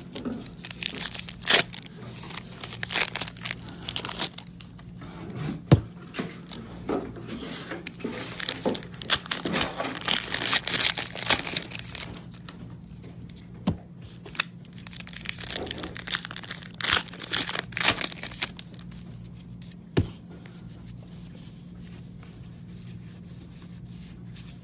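Foil trading-card packs and box wrapping being torn open and crinkled, in repeated rustling bursts with a few sharp clicks, dying down over the last few seconds. A steady low hum runs underneath.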